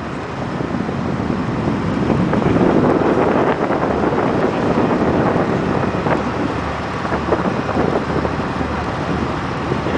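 Wind buffeting the microphone over the steady low rumble of a ferry underway.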